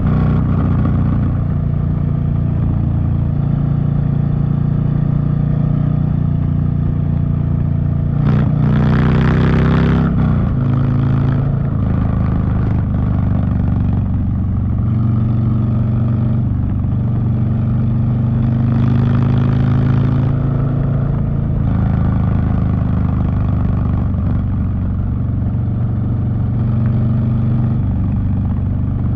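Harley-Davidson Street Bob V-twin engine running through a TBR 2-into-1 exhaust while riding. The engine note holds mostly steady. Its pitch shifts with a rush of hiss about nine seconds in, and a shorter rush of hiss comes near twenty seconds.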